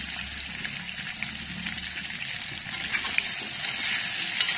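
Potato chunks frying in mustard oil in a kadhai: a steady sizzle with fine crackling. Near the end a metal spatula clicks against the pan a few times as the potatoes are stirred.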